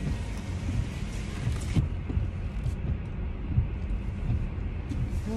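Steady low rumble of a car, its engine idling, heard from inside the cabin.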